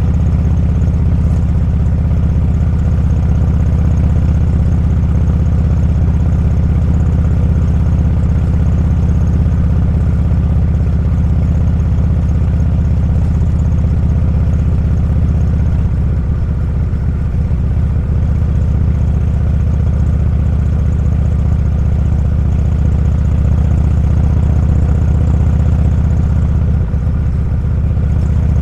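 Motorcycle engine running steadily while riding, a low, even drone that eases slightly about halfway through.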